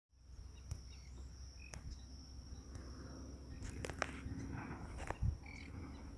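An insect singing one steady high-pitched trill, with scattered sharp clicks, a few faint chirps and a low rumble underneath; a short thump about five seconds in.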